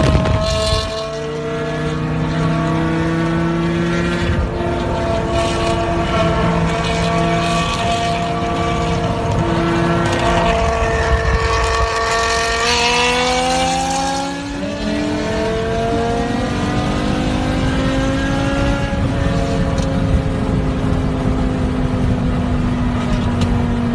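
BMW M5 E60's V10 exhaust, holding fairly steady revs, then revving up under acceleration a little past halfway. The pitch breaks at a gear change and climbs again before easing off.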